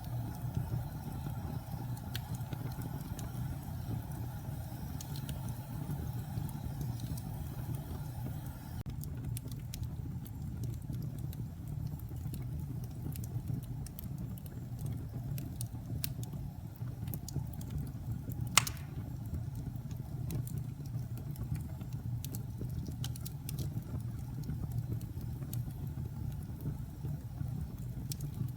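Wood fire burning in a fireplace: a steady low rumble of flames with scattered small crackles, and one loud sharp pop about two-thirds of the way through.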